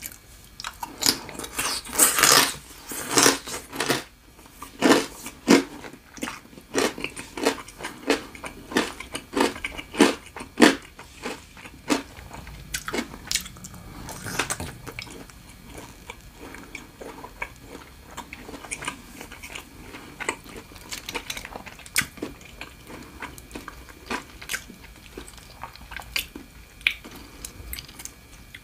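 Close-miked eating: loud crunchy bites and chewing of green papaya salad for the first few seconds, then many crisp chewing clicks that grow softer and sparser through the rest.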